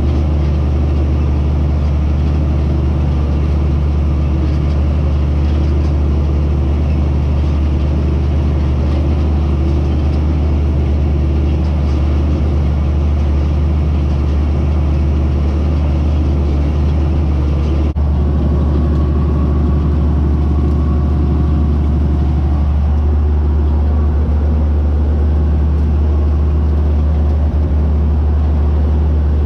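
White 2-150 tractor's diesel engine running steadily under load while pulling a disk, a loud constant low drone.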